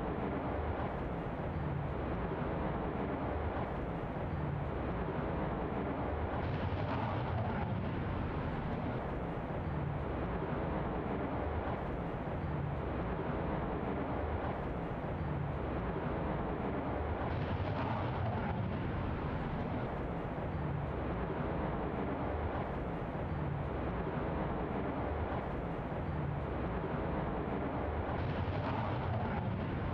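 F-35A fighter jet's engine, a steady rumble as the jet flies its landing pattern, with faint swells about every ten seconds.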